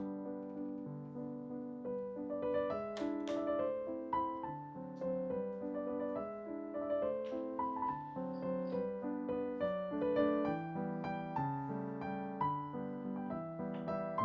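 Background piano music: a steady run of held notes and chords, with a couple of sharp clicks about three seconds in.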